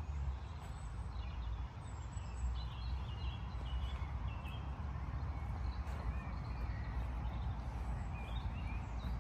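Birds singing in short chirping phrases, over a steady low rumble.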